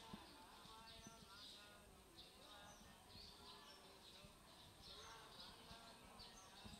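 Faint outdoor ambience: small birds chirping repeatedly, with faint distant voices now and then.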